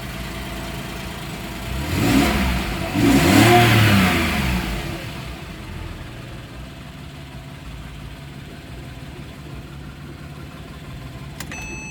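2010 Porsche 911 Carrera S's 3.8-litre flat-six idling, blipped twice about two to four seconds in, then settling back to a steady idle.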